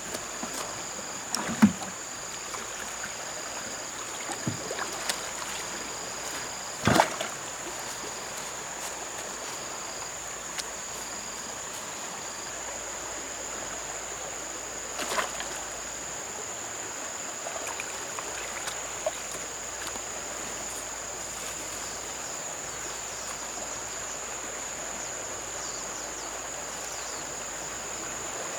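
River water running and lapping, with a few sharp knocks, the loudest about seven seconds in. A steady high-pitched insect drone runs over it, with a faster pulsing chirp during the first third.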